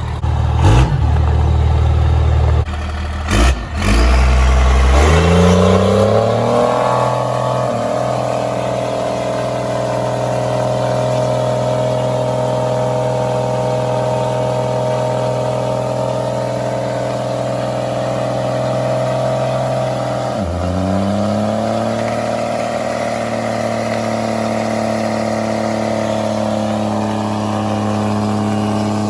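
Truck engine revved up and held at high revs, dropping sharply about two-thirds of the way through, then climbing back and holding again. It starts after a few seconds of loud low rumble with two sharp knocks.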